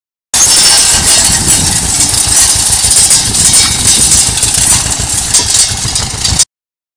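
A farm machine's engine running loudly close by, with a fast, even beat of firing pulses under a broad mechanical clatter. It cuts in suddenly just after the start and cuts off abruptly shortly before the end.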